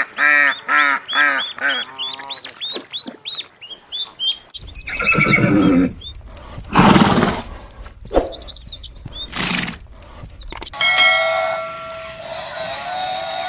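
A string of goose honks, repeated about three times a second and fading out. It is followed by a horse snorting and whinnying three times. Near the end a steady, held animal call begins.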